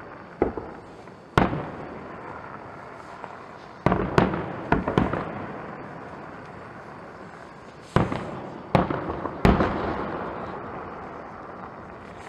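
Fireworks display: shells bursting with sharp booms, some single and some in quick clusters, each trailing off in a long echoing rumble.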